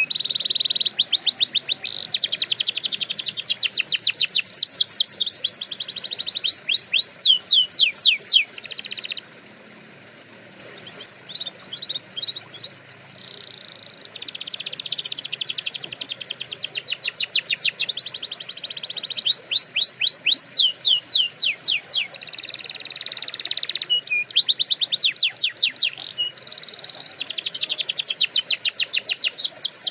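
Domestic canary singing: long, fast trills of rapidly repeated high notes, changing from one trill to the next. About nine seconds in the song drops to a few scattered notes, then the full trilling resumes about five seconds later.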